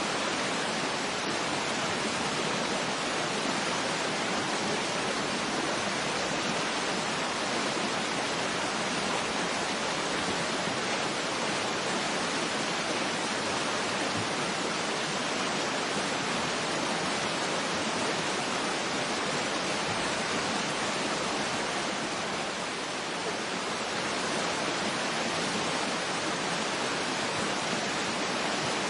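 Waterfall rushing: a steady, even hiss of falling water with no distinct splashes, easing very slightly for a moment about three-quarters of the way through.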